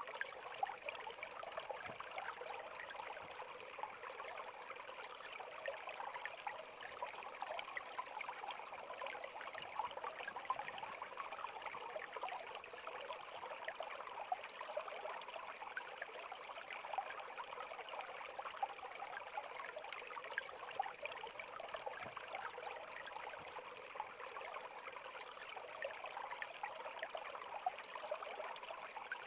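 River water flowing and bubbling over rocks: a steady, even rush with many small splashes and gurgles throughout.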